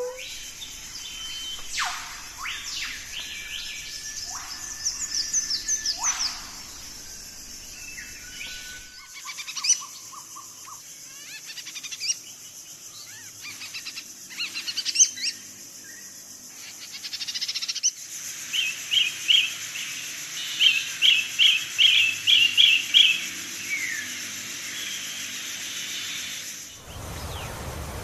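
Birds calling with short whistled notes and quick chirping trills over a steady high hiss; the calls and background change character every nine seconds or so.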